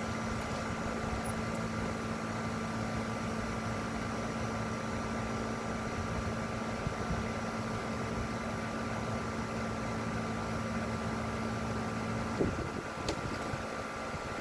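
Steady machine hum with a couple of soft knocks near the end.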